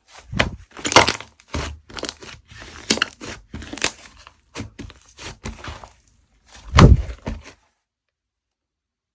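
Slime being squished and poked by hand in an irregular run of sticky clicks and popping air bubbles, with a few heavier squelches. It stops suddenly about seven and a half seconds in, leaving dead silence.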